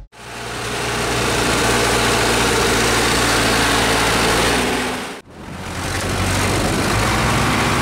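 Farm tractor's diesel engine running steadily. The sound cuts out for a moment about five seconds in and comes back, where two shots are joined.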